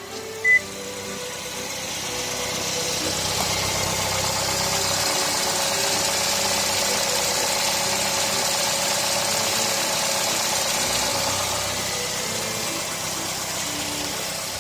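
Car running with its air conditioning on: a steady rush of air from the blower, building over the first few seconds and easing a little near the end, over a low hum.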